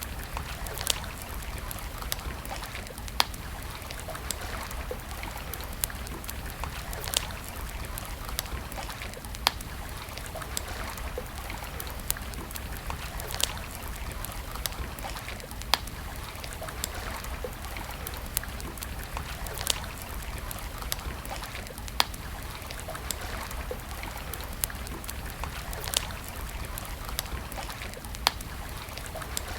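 Wood campfire crackling, with sharp pops standing out about every two seconds over a steady rush of flowing water from a stream.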